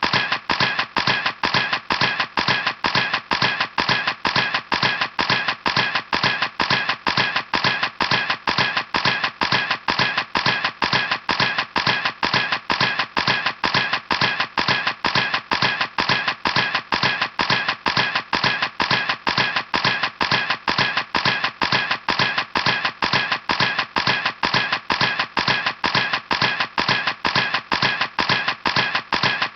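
Camera shutter clicking over and over at an even rate, about two and a half clicks a second, each a sharp snap that dies away quickly.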